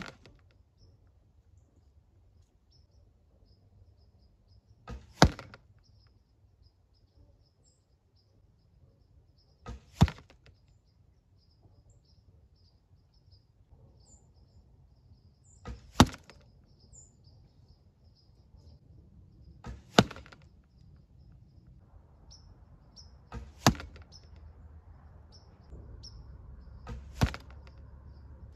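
Port Orford cedar arrows shot one after another from a bow, seven times: each shot is a faint release followed a split second later by a loud, sharp smack as the arrow strikes the target. Birds chirp faintly in the background.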